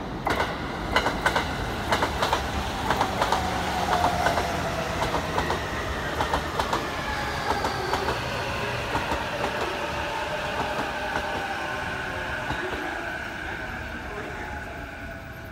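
E233-1000 series electric commuter train braking into the station: its wheels clack sharply over rail joints, the clacks thinning out as it slows. An electric whine falls steadily in pitch as it decelerates.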